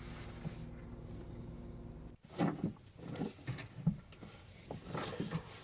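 A steady low hum that cuts off suddenly about two seconds in, followed by faint scattered knocks and clatters of parts and tools being handled in a boat's engine compartment.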